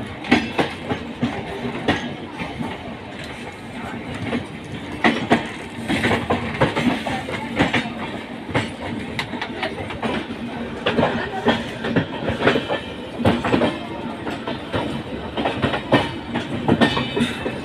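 Indian Railways express train coaches running close alongside one another: a steady running noise with wheels clattering irregularly over rail joints.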